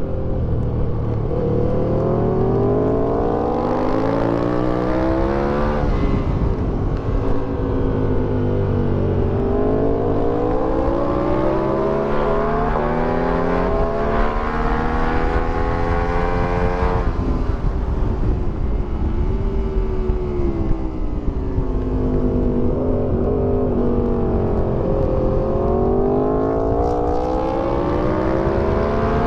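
Aprilia Tuono 1000R's V-twin engine with an Akrapovic exhaust, heard from onboard at track speed: revs climb in long pulls, drop sharply at each upshift, and fall away in stretches as the bike slows, then climb again. Wind rushes over the microphone throughout.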